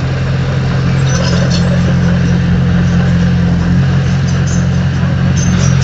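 Heavy earthmoving machine's diesel engine running steadily under load, a low, even drone with a few faint metallic clinks.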